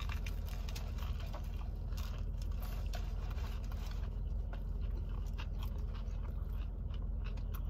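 Biting into a toasted multigrain sub sandwich and chewing, with many small crisp crunches from the crusty bread throughout. A steady low hum runs underneath.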